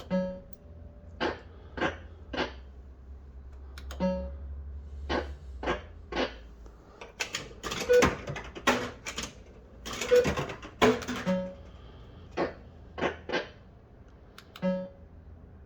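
Bell-Fruit Wild Cats fruit machine in play: an irregular string of sharp clicks and clunks mixed with short electronic bleeps, over a low hum that fades out about halfway through.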